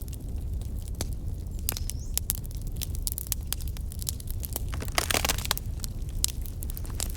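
Wood campfire crackling: sharp pops and snaps scattered irregularly over a low steady rumble, with a denser run of crackles about five seconds in.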